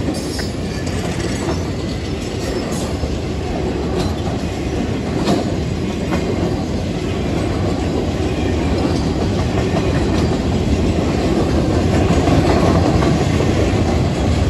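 Freight cars of a welded-rail train rolling past: a steady rumble of steel wheels on rail with occasional sharp clicks, growing a little louder near the end.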